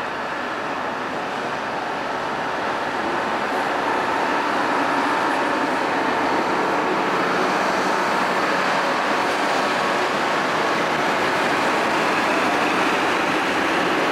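Train running by, a steady noisy rumble with no clear exhaust beat, growing louder over the first few seconds and then holding.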